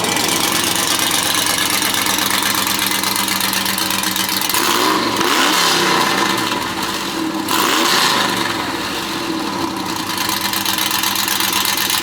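A car engine idling, revved up twice: once about five seconds in and again about eight seconds in.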